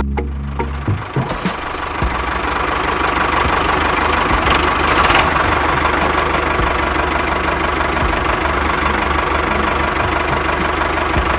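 Small engine running steadily with a fast, even rattle, starting after the tail of music fades in the first second or two.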